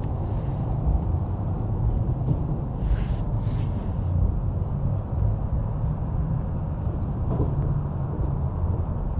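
Freight train's diesel locomotives running with a steady low rumble, with a couple of short hisses about three seconds in.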